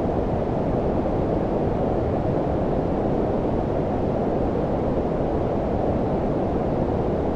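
Steady generated low-frequency noise of the brown-noise kind: an even, deep hiss with most of its weight below about 1 kHz and little above.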